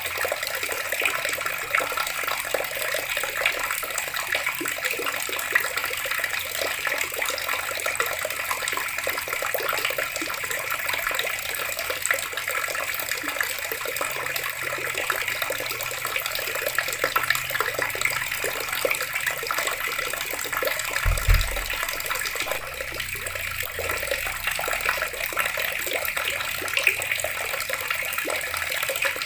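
Water running steadily from a tap and splashing below. A brief low thud about two-thirds of the way through.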